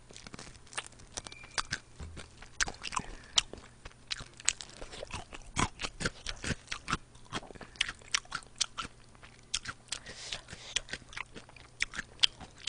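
Close-miked biting and chewing of crispy fried chicken wings: irregular sharp crunches throughout.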